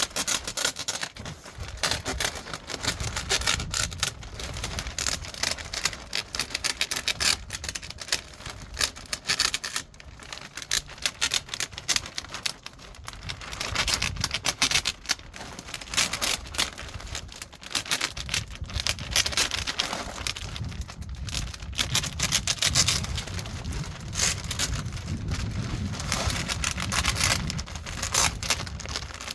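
Plastic roofing sheet crackling and rustling as it is handled and stretched into place, a dense run of irregular crackles with a low rumble underneath.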